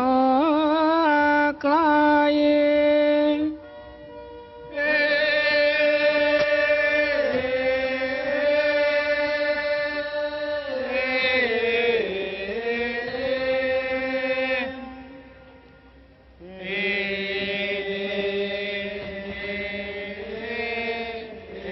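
Thai royal barge chant (he ruea): a voice chanting long drawn-out notes whose pitch wavers and glides. It breaks off twice for a breath-length pause before taking up the next line.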